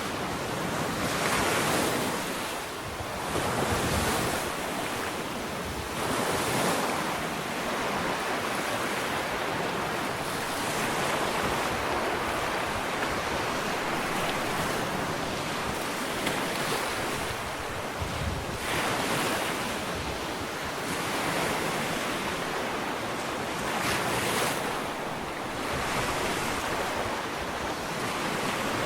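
Ocean waves breaking and washing up a sandy beach, a continuous surf hiss that swells and falls with each wave.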